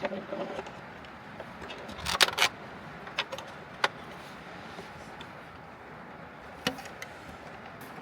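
Steady rain on the roof of a Honda N-VAN, heard from inside the van, with scattered clicks and knocks: a quick cluster about two seconds in and a few single ones after.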